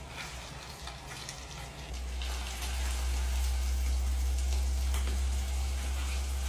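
Eggs and sliced ham sausage sizzling and crackling in a pot. Under it a steady low rumble grows louder about two seconds in and stays the loudest sound.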